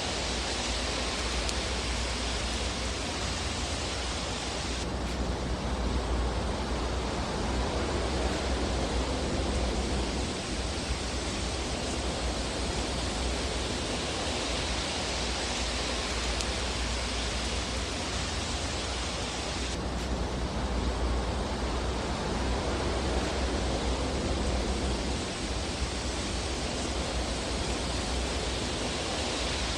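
Steady sound of a fire in a fireplace: an even hiss over a low rumble, the hiss swelling and easing slowly, with no distinct crackles.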